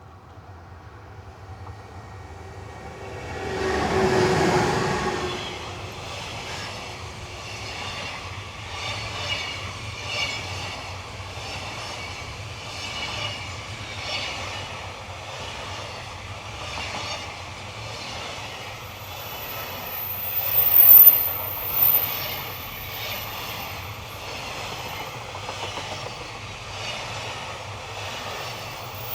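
Freight train passing: a loud swell as the locomotive goes by about four seconds in, then the wagons rolling past with a steady clickety-clack of wheels over rail joints, roughly one a second. A high-pitched wheel squeal rises twice, about two-thirds of the way through and again near the end.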